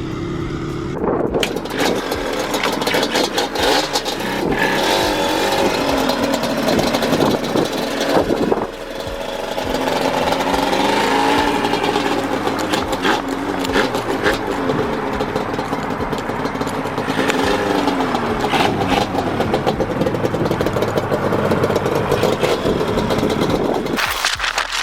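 Nissan 350Z's V6 engine and exhaust running hard under acceleration, the pitch rising and falling as it revs and shifts. The sound dips briefly about eight and a half seconds in.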